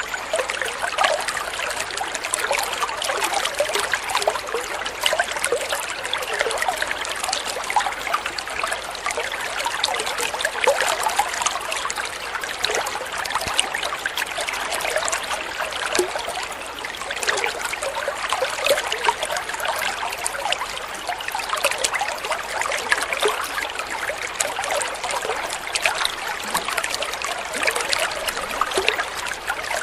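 Flowing water, a steady trickling and babbling of many small splashes.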